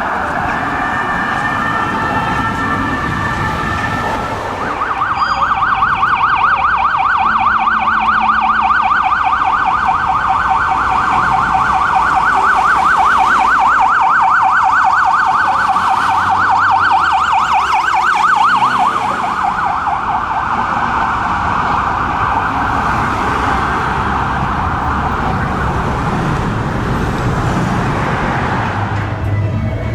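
Ambulance siren on an emergency run. It wavers at first, then switches about five seconds in to a fast yelp that rises and falls several times a second. It is loudest during the yelp and settles into a steadier tone for the last ten seconds or so.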